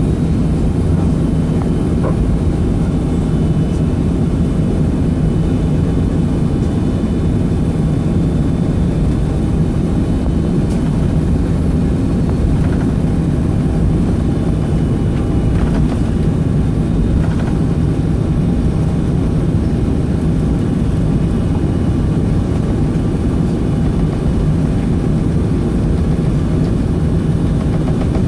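Steady low drone of a Boeing 757-232's Pratt & Whitney PW2037 engines running, heard inside the cabin, with a few faint clicks.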